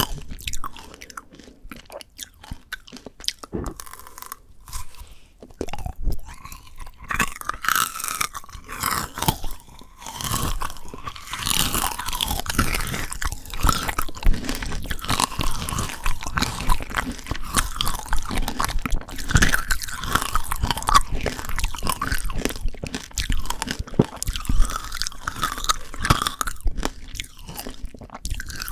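Close-miked biting and chewing of frozen Shine Muscat grape tanghulu: the hard sugar candy shell cracks and crunches between the teeth. It starts as a few scattered cracks, then turns into steady, dense crunching about a third of the way in.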